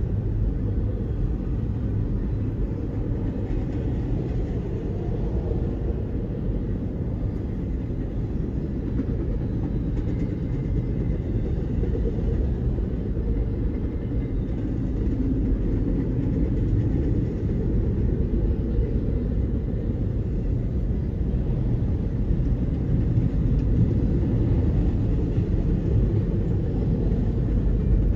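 Union Pacific double-stack container train rolling past, the steady rumble of its well cars' wheels on the rails.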